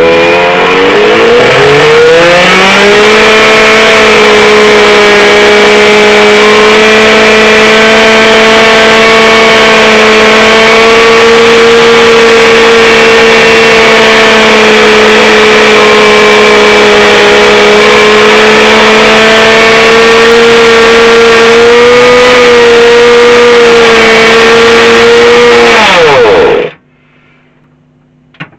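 Small nitro glow-plug engine of a radio-controlled model car firing up and running. Its note rises over the first couple of seconds, then holds a steady high-pitched buzz until it cuts out suddenly near the end. It is running with a carburettor that was just found loose and drawing air, and the owner judges it better.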